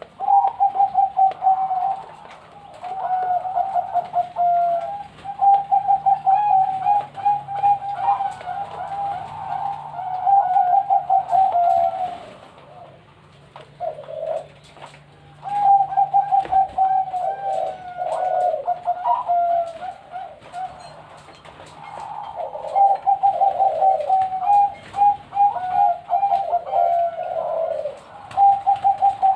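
Zebra dove (perkutut) cooing: long phrases of quick, rippling coos, three phrases with short pauses between.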